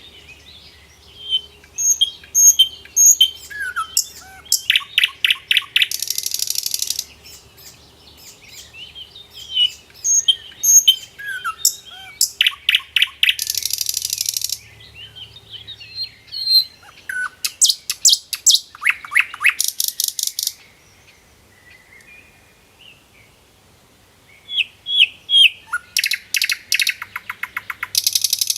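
Songbird singing in repeated phrases: high chirps and quick sweeping whistles building into rapid trills, each phrase ending in a short buzzy rasp. The phrases come about every seven to eight seconds, with a quieter pause about three quarters of the way through.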